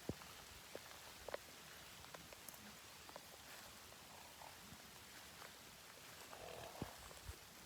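Rain falling: a faint, steady hiss with scattered drops tapping irregularly.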